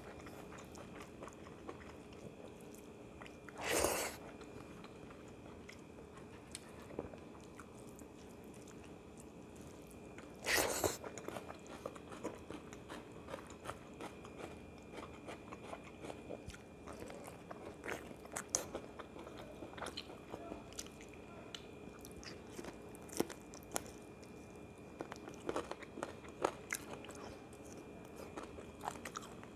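A man chewing a mouthful of rice and chicken curry eaten by hand, with many small wet mouth clicks. Two louder noisy bursts come about four and eleven seconds in, over a faint steady hum.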